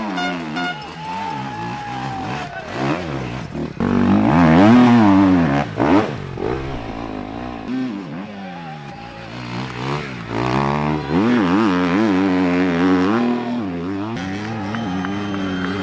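Off-road motorcycle engine revving up and down over and over as the throttle is opened and shut, loudest about four to six seconds in.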